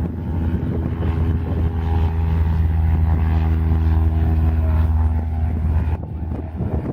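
Light propeller airplane engine droning steadily with a low, even hum, cutting off sharply about six seconds in.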